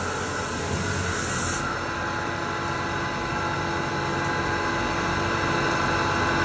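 Ramco 37-inch wet wide belt sander running steadily, a continuous machine drone with several steady hum tones, and a short burst of high hiss about a second in.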